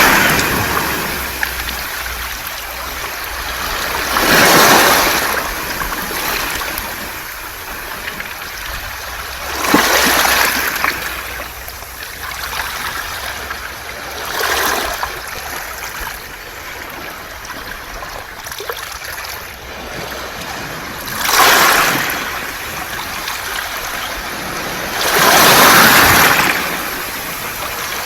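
Sea waves washing up and back over a beach of smooth round pebbles, the water and stones hissing in a loud surge about every four to six seconds, six times, with a softer wash between.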